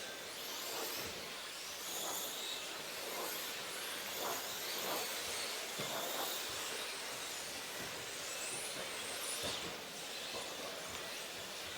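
Several 1/10 electric RC racing trucks running around the track, their brushless motors whining up and down in pitch as they accelerate and brake, over a steady hiss of tyres and motors, with occasional thumps from landings and impacts.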